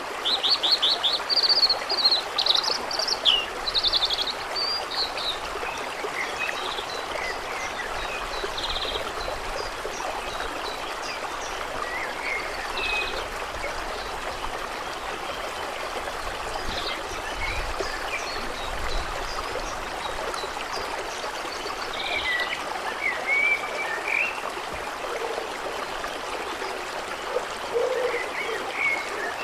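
Steady trickling, flowing water with birds calling over it: a burst of trilling song in the first few seconds, then scattered chirps, with another cluster a little past the middle.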